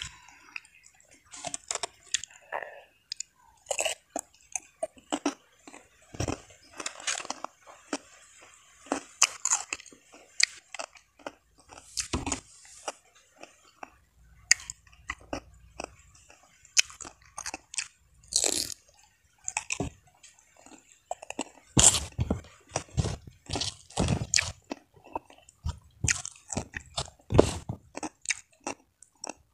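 Close-miked chewing with many short, crisp crunches as a person eats by hand, biting into raw cucumber.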